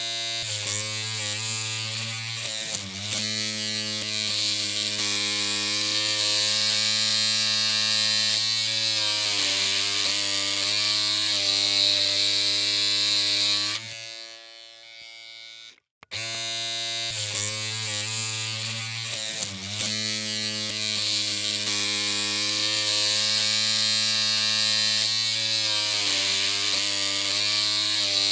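Electric hair clippers running with a steady buzzing hum, wavering slightly in pitch now and then. About fourteen seconds in the hum fades out, there is a moment of silence, and then it starts up again.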